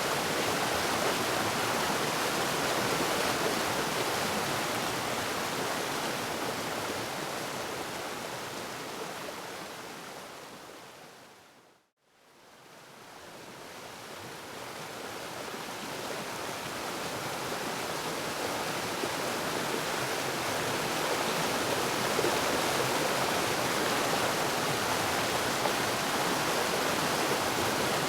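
Waterfall: a steady rush of falling water that fades away to silence about twelve seconds in, then swells slowly back up to full strength.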